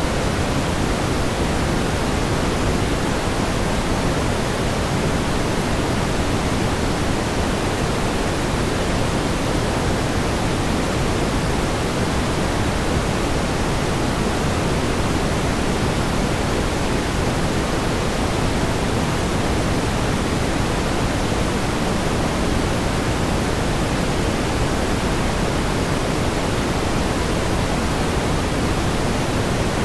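Steady pink noise: an even, unchanging hiss weighted toward the low end, with no swells or breaks.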